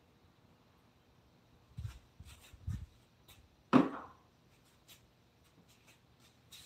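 Wooden pieces and hand tools being handled: a few soft knocks and light clicks, with one sharp, louder knock a little under four seconds in.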